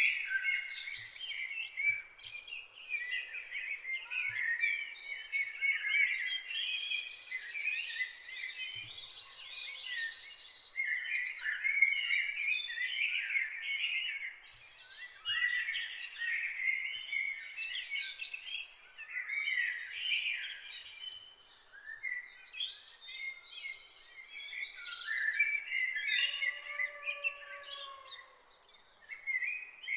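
Dawn chorus of several songbirds singing at once: many overlapping chirps, trills and quick whistled phrases, with no pause. A lower, drawn-out whistle joins near the end.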